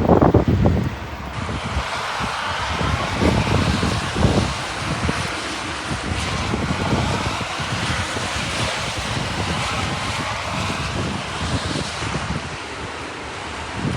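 Heavy rain falling steadily with a dense hiss, while gusts of wind buffet the microphone in irregular low rumbles. The strongest gust comes right at the start.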